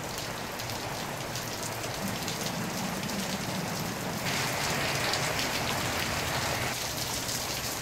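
Steady rain falling during a thunderstorm, with many small drop ticks close by. The rain grows louder for a couple of seconds past the middle, then eases back.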